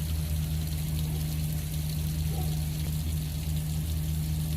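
Dark, dirty waste water from a carpet-cleaning machine's recovery tank pouring and splashing out, over a steady low machine hum and hiss.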